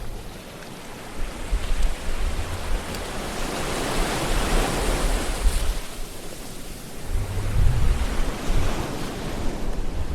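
Ocean waves breaking and washing in, the surf swelling to its loudest about four seconds in, with a deeper rumble of another wave around seven to eight seconds.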